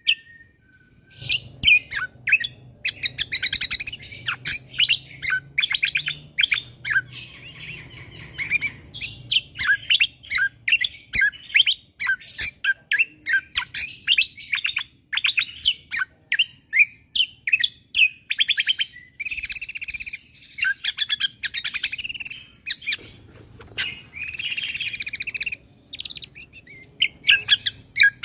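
Kecial kombo (cucak kombo) songbird singing a long, rapid run of short, sharp chirping notes, some strung into fast dense bursts. The song begins about a second in.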